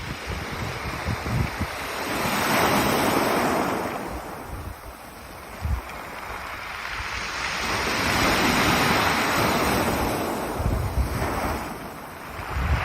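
Sea waves surging up and drawing back over a beach of pebbles, two swells rising and falling. Wind buffets the microphone in short low gusts.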